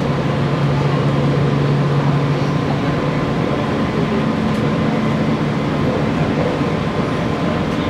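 Interior running noise of a JR Kyushu 817 series 3000 electric train under way: wheels rumbling on the rails and the steady hum of the traction motors. A low hum fades out about two and a half seconds in, and a higher hum comes in a few seconds later.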